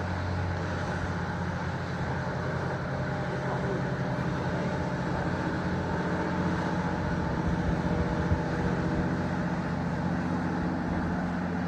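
An engine running steadily: a low, even hum under a constant wash of noise.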